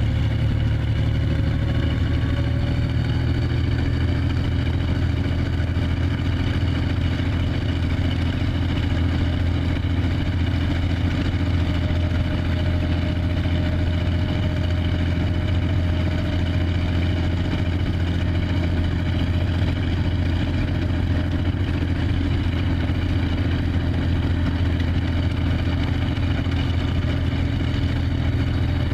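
A tank engine idling steadily, a deep even running without revving.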